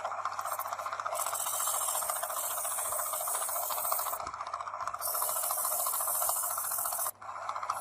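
A small motor running steadily with a fast, fine rattle, joined twice by a long burst of high hiss.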